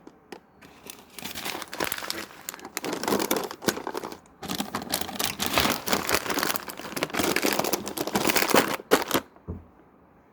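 Plastic wrapper crinkling as it is handled, in irregular bursts that stop abruptly about nine seconds in.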